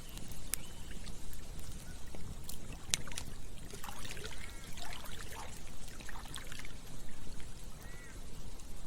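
Campfire crackling with scattered sharp pops, over a steady trickling, gurgling stream that bubbles more busily in the middle and again near the end.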